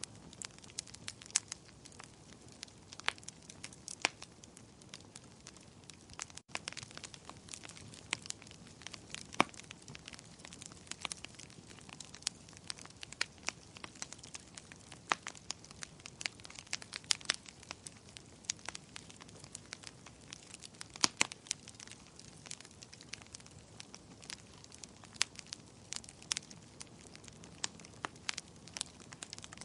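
Fireplace fire crackling: irregular sharp pops and snaps, several a second, over a soft steady hiss, with a momentary dropout about six seconds in.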